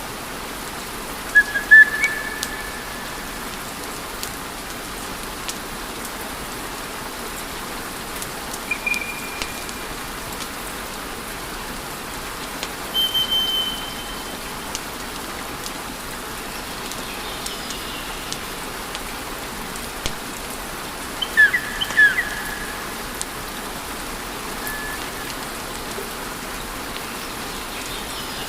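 Wood fire in a fireplace crackling and hissing steadily, with several short high whistles from the burning logs, the loudest a cluster a little past the middle.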